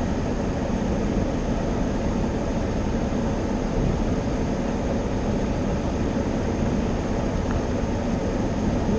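Steady rushing noise of automatic car wash equipment heard from inside the car.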